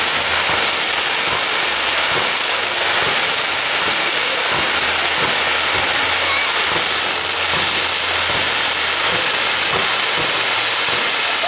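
Fireworks crackling densely and steadily, a rain-like hiss made of many small pops from the crackling effects.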